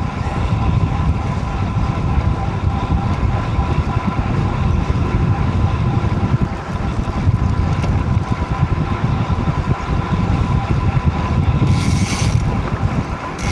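Wind buffeting the microphone of a cyclist riding a road bike at speed, a loud, unsteady low rush, with a faint steady whine underneath. A brief hiss sounds near the end.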